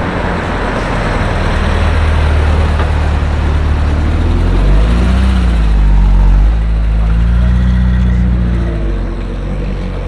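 A motor vehicle's engine accelerating in street traffic. Its pitch rises and dips about halfway through, holds steady for a couple of seconds, then drops away near the end.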